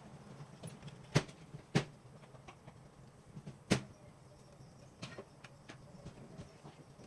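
Sharp knocks of tools or parts being handled during car repair work: loud ones about a second in, just before two seconds and just before four seconds, with fainter ones after five seconds, over a low steady hum.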